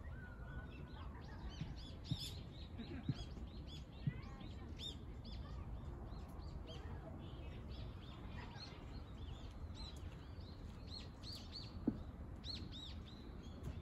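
Small birds chirping, several short, high chirps a second from more than one bird, over a low outdoor rumble, with a few soft knocks.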